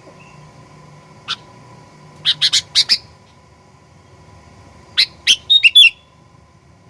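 Sooty-headed bulbul (kutilang) calling in sharp, loud notes: a single note, then a quick run of four a second later, and near the end two more notes leading into a short warbled phrase. A faint steady hum runs underneath.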